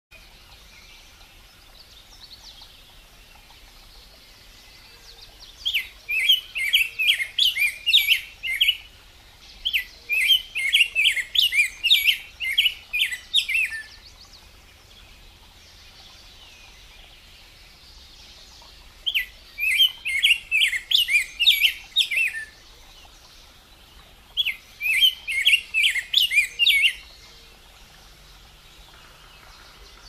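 Rose-breasted grosbeak singing: four rapid warbling phrases of a few seconds each, separated by pauses.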